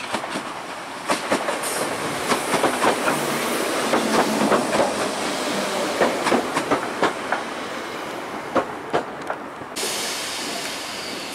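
ScotRail Class 320 electric multiple unit running in along the platform and slowing to a stop, its wheels clicking over the rail joints in an irregular run of sharp clacks. Near the end a steady high hiss sets in suddenly.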